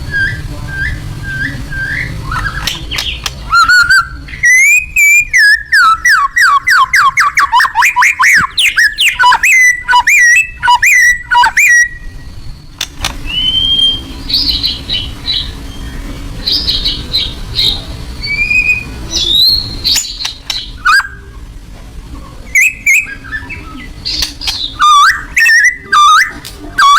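White-rumped shama (murai batu) singing loudly, a varied run of clear whistled phrases. From about four to twelve seconds in it delivers a long, rapid series of repeated down-slurred notes, and after that sharp whistles and short bursts.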